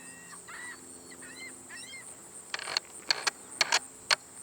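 A bird gives about five short arched calls, then a run of sharp clicks, the loudest sounds, follows from about halfway. A steady high insect trill runs underneath.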